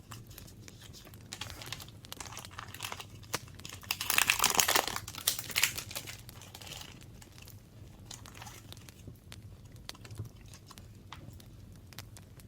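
Paper crinkling and rustling as it is handled, loudest for about two seconds near the middle, with small taps and clicks before and after.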